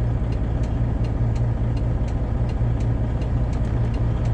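Straight-piped Detroit Diesel 12.7 inline-six in a Freightliner Classic XL semi truck running steadily under way, heard from inside the cab as a deep steady drone. Light ticks come about two to three times a second over it.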